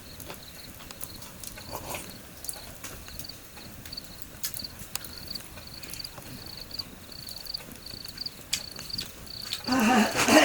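Insect chirping, a high rapid pulsing trill that keeps on steadily, with scattered light clicks over it.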